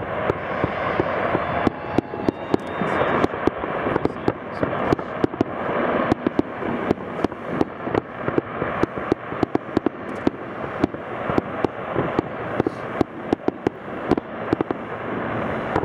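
A fireworks display going off in a rapid, irregular string of sharp bangs, several a second, over a continuous rumbling haze.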